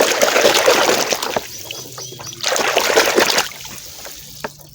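Water splashing and sloshing as a muddy toy is swished and washed by hand, in two loud bouts, the second starting about two and a half seconds in, with quieter dripping between and near the end.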